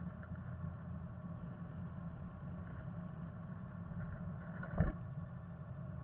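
Black-capped chickadee moving about in its nest inside a wooden nest box, with a few faint rustles and one brief thump about five seconds in as it flutters up to the entrance hole, over a steady low rumble.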